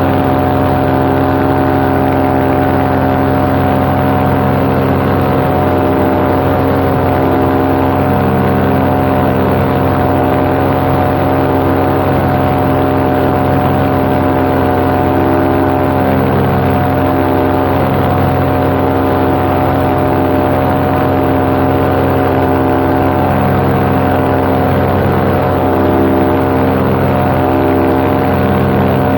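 Paramotor engine and propeller running steadily at cruise power, heard from the pilot's seat, holding one even pitch throughout.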